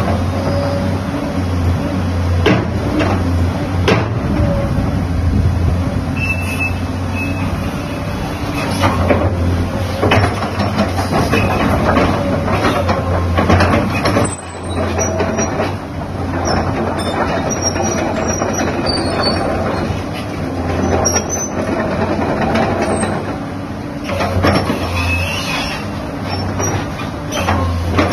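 SANY hydraulic excavator working: its diesel engine runs steadily under repeated metallic clanks, with brief high squeals here and there.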